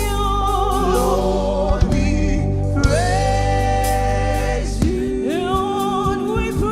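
Live gospel worship music: singers holding long notes over sustained keyboard and bass, with steady drum hits.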